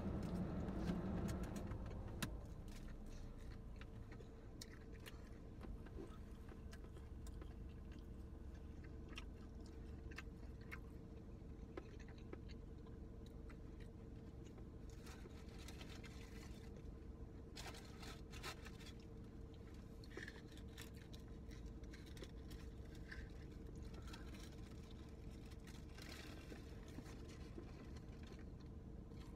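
A person chewing a mouthful of sugar-coated soft pretzel, with small clicks and rustles from handling a plastic dip cup. These sit over a steady low hum. The clicks come thickest around the middle and near the end.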